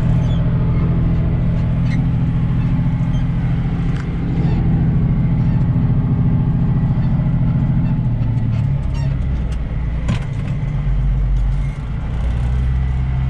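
John Deere 2940 tractor's diesel engine running steadily while pulling a rotary hay rake. From about two-thirds of the way through, the engine note drops lower, with a sharp click about ten seconds in, before it settles again near the end.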